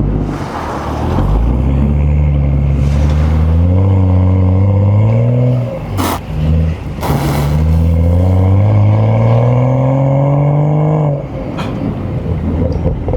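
BMW M235i's turbocharged N55 inline-six revving up under throttle, pitch climbing steadily for about four seconds, then, after a brief break with a couple of sharp clicks, climbing again for another few seconds before the revs drop near the end.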